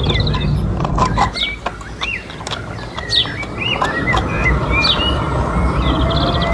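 Small birds chirping repeatedly in short high calls over a steady low rumble, with scattered clicks. A steady hum joins about four seconds in.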